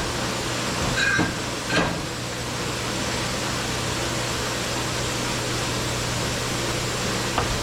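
Steady hum and hiss of shop machinery, with a few short metal clicks and knocks, twice in the first two seconds and once near the end, from parts being handled during a transmission teardown.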